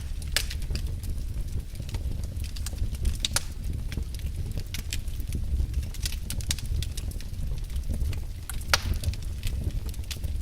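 Wood fire in a fireplace crackling: irregular sharp pops and snaps over a steady low rumble of the flames, with one louder pop just before the end.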